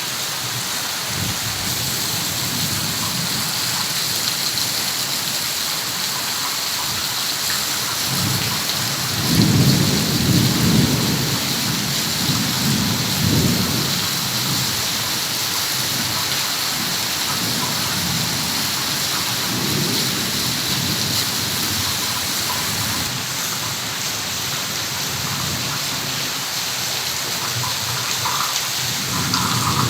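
Heavy rain falling in a steady hiss. Low rumbles swell up about a third of the way in, again around the middle, and near the end.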